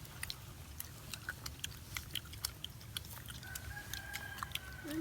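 Rooster crowing faintly in the background, one long held call near the end, over scattered short clicks and a steady low hum.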